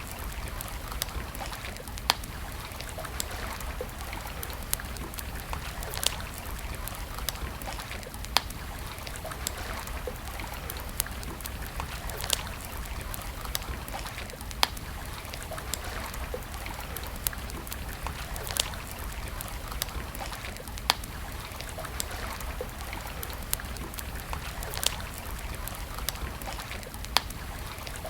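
Campfire crackling: sharp wood pops every second or two over a steady hissing rush.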